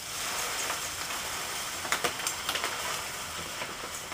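Fine aquarium sand being poured over stones in a ceramic bowl: a steady trickling hiss with small scattered ticks of falling grains.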